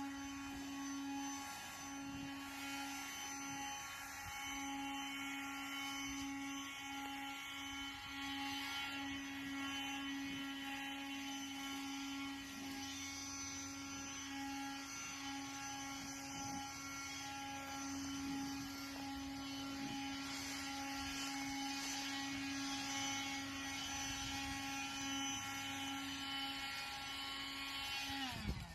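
Leaf blower running at a steady speed with a high, even hum. Near the end it is switched off and winds down, its pitch falling away.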